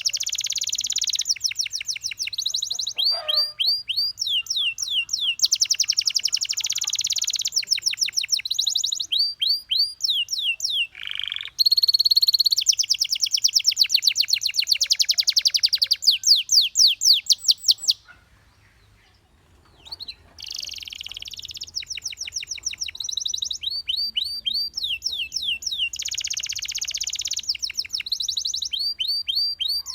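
Domestic canary singing: fast runs of repeated, steeply falling notes alternating with dense rolling trills, with a brief pause about two-thirds of the way through.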